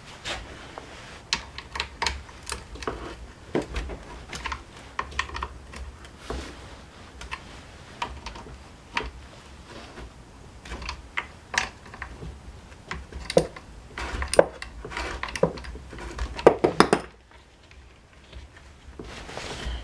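Irregular clicking and clattering of small plastic and metal parts being handled and fitted together while reassembling a Honda UMK422 string trimmer, with a denser run of sharp clacks near the end, over a low steady hum.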